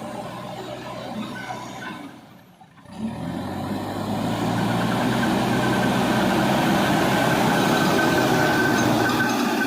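Diesel engine of heavy earth-moving machinery running. It drops away briefly about two seconds in, then comes back steady and louder.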